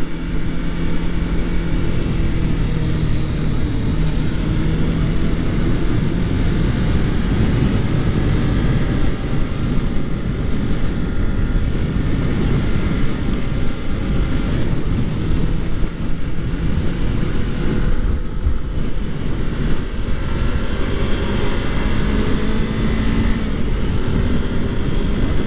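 Wind rushing over the microphone, with the steady running of a Kawasaki Ninja 400's parallel-twin engine at cruising speed. The engine note shifts slightly in pitch near the end.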